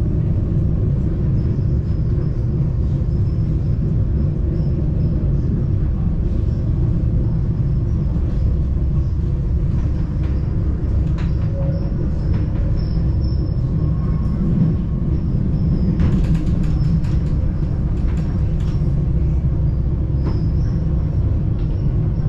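Passenger train running with a steady low rumble. A quick run of clicks and rattles comes about two-thirds of the way through.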